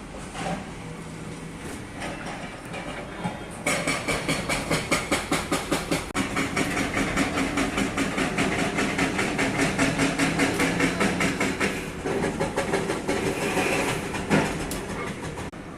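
A rhythmic mechanical clatter of about five beats a second over a steady hum. It grows louder about four seconds in and eases off about twelve seconds in.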